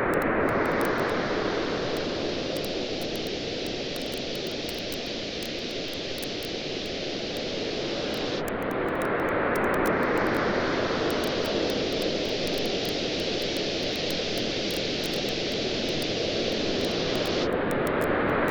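Sea waves washing onto a beach in slow swells, a new one building about every nine seconds (near the start, around the middle and near the end), with a campfire crackling steadily over them in small, sharp pops.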